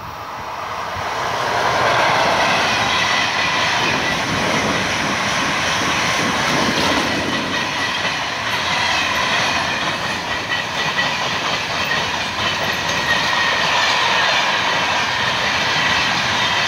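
Freight train hauled by an FS E652 electric locomotive passing close by, growing to full loudness about two seconds in. A long string of closed freight wagons then rolls past, wheels running on the rails with a faint steady high ringing.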